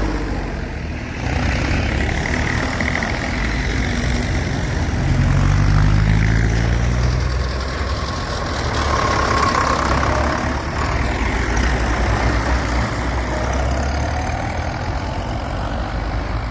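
Vintage tractor engines running as a line of tractors moves off, a steady low engine rumble that grows louder about five to seven seconds in.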